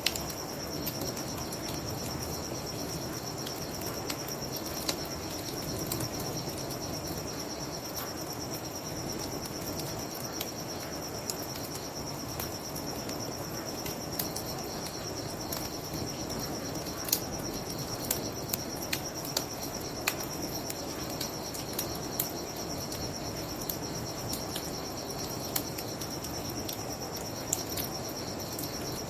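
Crickets chirping steadily in a high, continuous trill, over a wood bonfire crackling with scattered sharp pops and a low steady rush.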